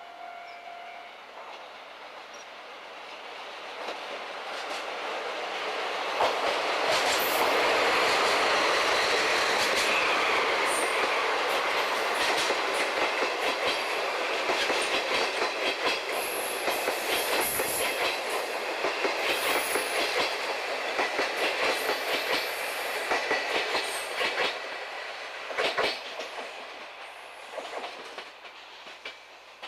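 DD51 diesel-hydraulic locomotive and its train of 12 series passenger coaches passing by. The locomotive's engine noise builds to a peak about seven seconds in, then the coach wheels clatter in an even rhythm over the rail joints before the sound fades near the end.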